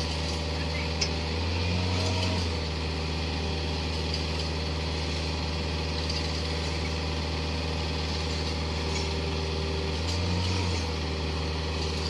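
Excavator's diesel engine running steadily at working speed, swelling in level twice: about two seconds in and again near the end.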